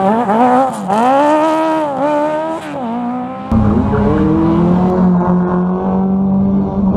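Rally car engine revving hard, its pitch climbing and dropping several times with throttle lifts and gear changes. About halfway through, a sudden heavy low rumble comes in and the engine note holds at high revs, rising slowly.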